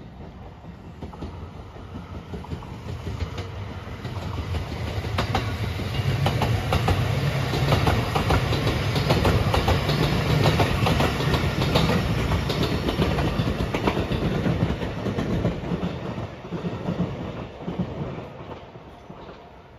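An electric multiple-unit passenger train passing close by, its wheels clicking over the rail joints. It builds up over the first few seconds, is loudest around the middle, and fades away near the end.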